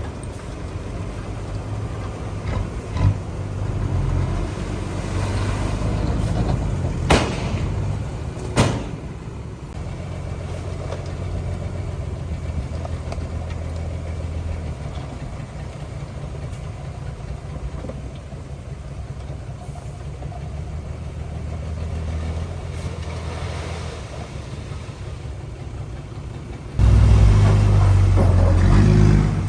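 Heavy diesel earthmoving machinery running with a low, uneven engine rumble, broken by a few sharp metallic clanks in the first nine seconds. Near the end it becomes much louder for a few seconds, then cuts off suddenly.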